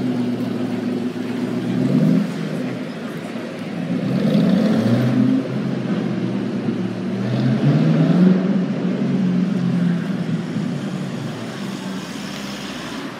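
Ford Mustang GT500's V8 pulling away, its exhaust swelling and rising in pitch a few times as it accelerates, then fading as the car drives off near the end.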